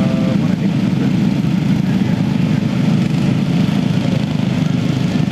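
Riding lawn mower engines running steadily together, a dense low drone with no pauses.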